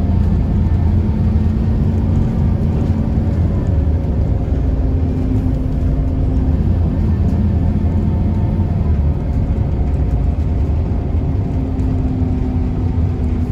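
Scania L94UB bus's DSC9 nine-litre six-cylinder diesel running steadily on the road, with a low hum that comes and goes several times.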